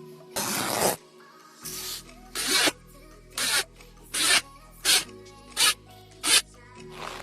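Rough rubbing or rasping strokes, about eight in a row a little under a second apart, the first one longer, over quiet background music.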